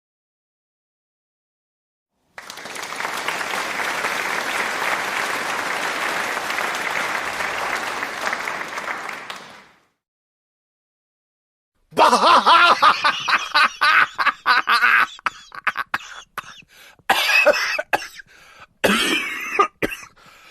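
A crowd applauding steadily for about seven seconds, then after a short pause a person coughing and clearing their throat over and over in short, loud bursts.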